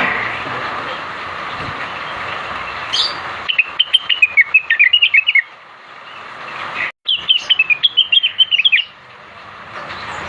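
Cucak wilis leafbird singing two quick runs of sharp, rapid chirping notes, each lasting about two seconds, over a steady hiss.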